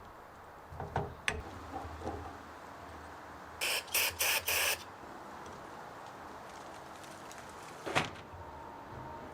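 Four quick hissing spray bursts in close succession, among light clicks and knocks of parts being handled, with a sharper knock near the end.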